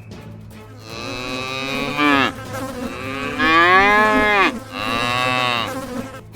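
A cow mooing: three long drawn-out calls, one after another.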